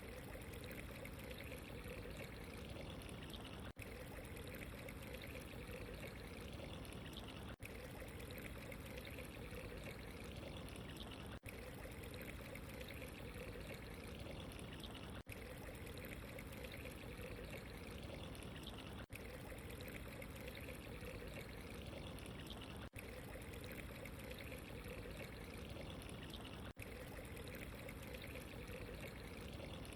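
Steady running water, a pouring and trickling sound, with a tiny break about every four seconds.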